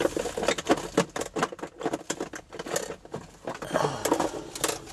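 Rapid, irregular clicks and rustles of craft materials being handled on a work surface while a rubber stamp is prepared for use.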